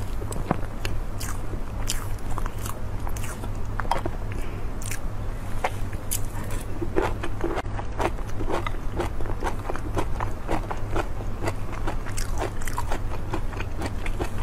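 Close-miked eating sounds: chewing and wet mouth smacks and clicks, several a second, over a steady low hum.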